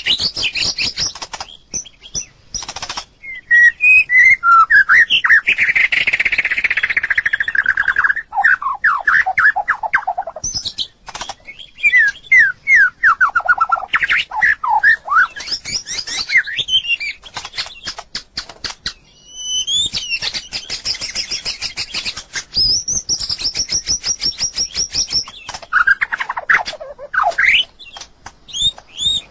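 White-rumped shama singing: varied phrases of whistled notes, quick descending runs and rapid clicking notes, with short pauses between phrases.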